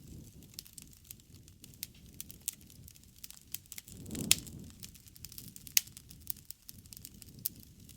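Wood campfire crackling, with scattered sharp pops, the two loudest a little past halfway, over a low rumble of the burning fire.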